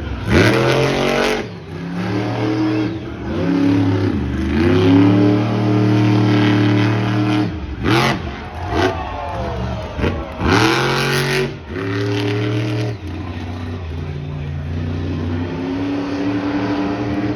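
Monster truck engine revving hard again and again, its pitch climbing and dropping, with several loud full-throttle blasts, the biggest about a third and two-thirds of the way through.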